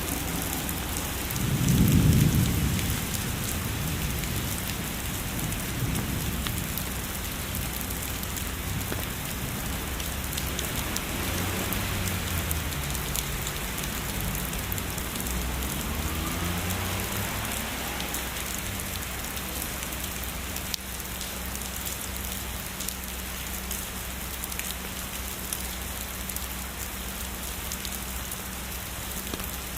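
Heavy rain falling steadily, with a roll of distant thunder that swells about two seconds in and slowly rumbles away.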